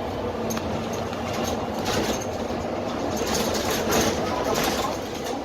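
Cabin noise inside a Dennis Trident double-decker bus under way: the Cummins ISMe diesel engine and road noise run steadily, with fittings and panels rattling and clicking throughout.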